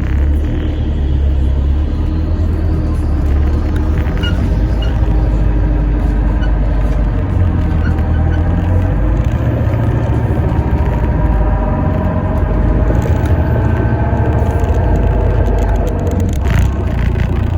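Alexander Dennis Enviro400 MMC hybrid double-decker bus heard from inside while driving, with a steady low rumble. Partway through, a whine of several tones rises in pitch as the bus pulls away or speeds up.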